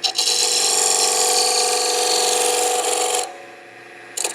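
Turning chisel cutting a spinning pine spindle on a wood lathe to round it over, a loud rasping cut for about three seconds. The tool then comes off the wood, leaving the lathe running with a quieter hum, and touches the wood again briefly near the end.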